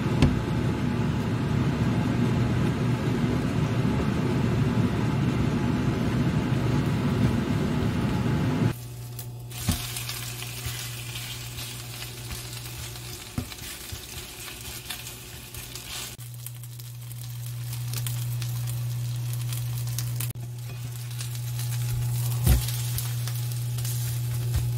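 Korean chive pancake batter sizzling in hot oil in a nonstick frying pan. It is loudest for the first eight seconds or so, then quieter with a steady low hum underneath and a few taps of a silicone spatula against the pan.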